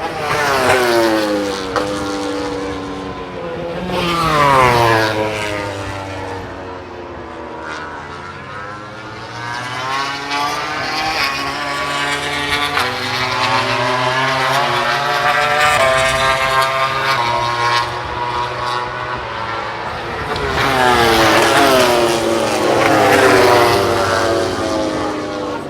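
MotoGP racing motorcycles passing at top speed one after another, their 1000 cc four-cylinder engines screaming at high revs, with the pitch dropping sharply as each bike goes by. The loudest passes come about a second in, around four seconds, and again around 21 to 24 seconds.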